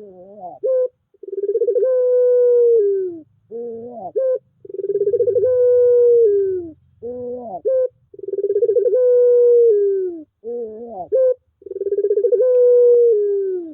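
Puter pelung (domestic Barbary dove) cooing over and over: four long, drawn-out coos that sag in pitch at the end, each followed by a few short rising, wavering notes. The cycle comes round about every three and a half seconds.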